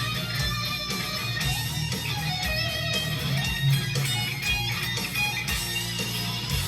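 Electric guitar playing over a hard rock band track with drums and bass.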